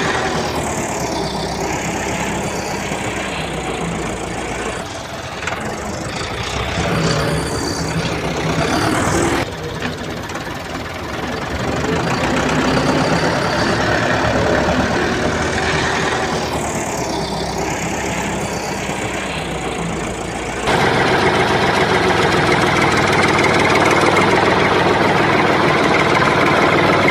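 Engine running steadily, with sudden changes about nine and twenty-one seconds in, after which it is louder.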